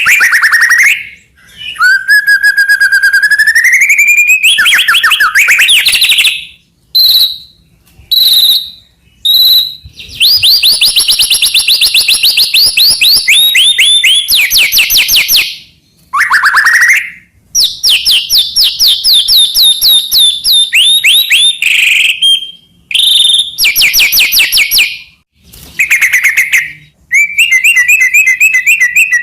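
White-rumped shama (murai batu) singing loudly in varied phrases separated by short pauses: a rising whistled glide, a few short single notes, then long fast trills of repeated sweeping notes at several pitches.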